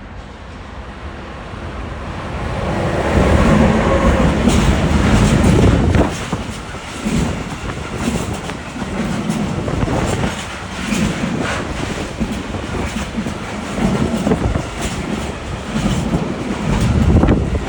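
Freight train of tank wagons behind a class 185 Traxx 2 electric locomotive rolling past. It grows louder over the first few seconds, is loudest about 3 to 6 seconds in, then the wagons' wheels clatter over the rail joints in a steady repeating rhythm.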